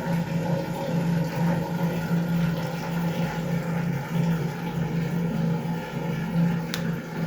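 Candy front-loading washing machine running a spin test: a steady machine hum that swells and fades slightly, with one sharp click near the end.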